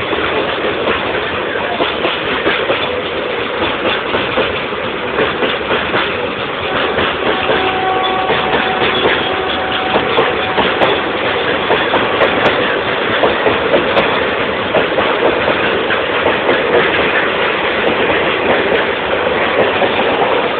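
A passing train, its wheels clattering on the rails in a steady, dense rumble.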